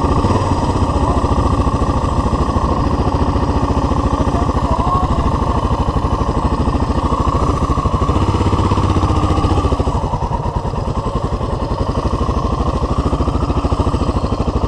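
Suzuki DR dual-sport motorcycle's single-cylinder four-stroke engine running steadily under way on a dirt trail, with its firing pulses heard close up from the rider's helmet camera.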